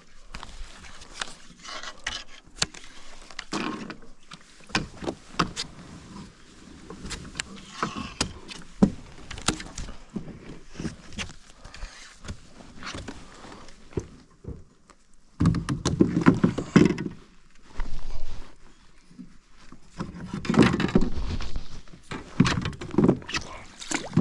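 Scattered clicks and knocks of gear being handled aboard a fishing kayak, with two louder bursts of rustling and sloshing about fifteen and twenty seconds in.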